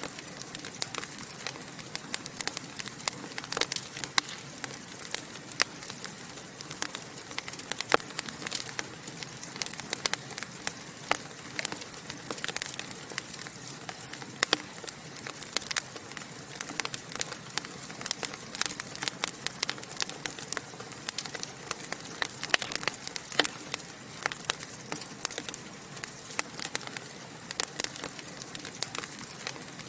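Wood fire burning in a fireplace, crackling and popping in a steady stream of sharp, irregular snaps over a soft hiss.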